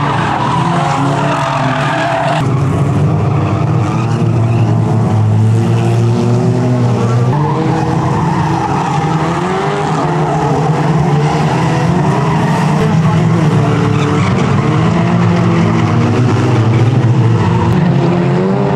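Engines of several small hatchback street banger cars running hard and revving, their pitch rising and falling as they race.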